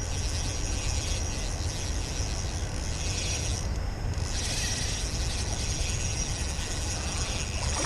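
Ultralight fishing reel working steadily against a hooked smallmouth bass during the fight, a continuous mechanical reel noise.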